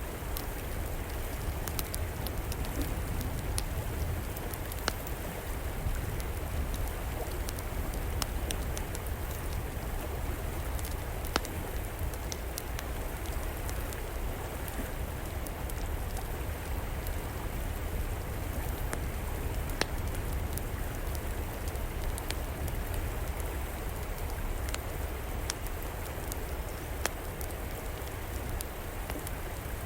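River water flowing steadily with a low rumble, mixed with a wood fire in an outdoor fireplace crackling: scattered sharp pops, a few of them louder, over the water's hiss.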